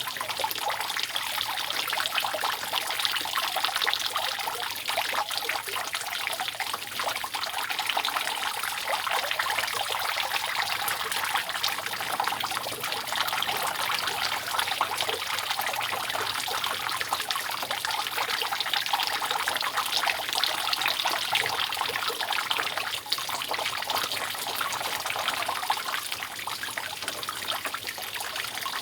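Continuous dripping and trickling of water falling from a roof leak, a dense, steady patter of many small splashes.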